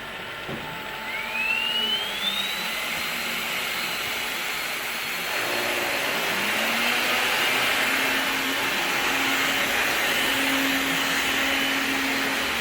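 Two AEG cordless stick vacuum motors running with a steady rushing hiss. About a second in a high whine rises steeply in pitch, and around six seconds in a lower tone rises and then holds steady as the sound grows louder.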